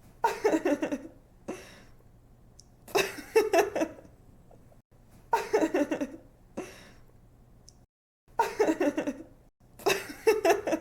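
A young woman giggling and laughing in short bursts, about five of them, each about a second long and a second or two apart.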